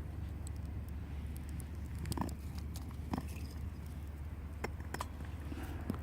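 Wood campfire crackling, with scattered small snaps and a handful of louder sharp pops, over a steady low rumble.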